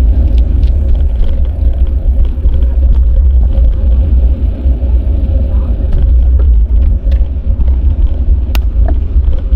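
Wind buffeting an action camera's microphone during a bicycle ride: a loud, steady low rumble over the hiss of tyres and traffic, with one sharp click near the end.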